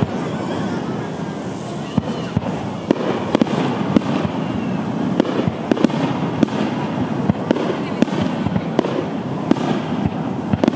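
Aerial firework shells bursting overhead in an irregular, rapid series of sharp bangs and crackles.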